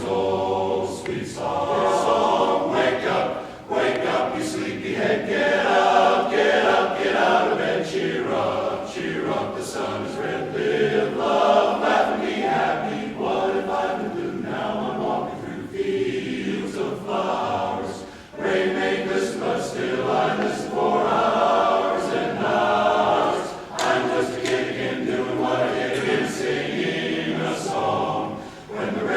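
A cappella choir singing, many voices together in phrases with short pauses between them.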